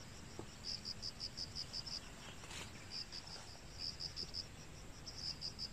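An insect chirping in a high pitch, in runs of evenly spaced pulses at about six a second with short pauses between the runs.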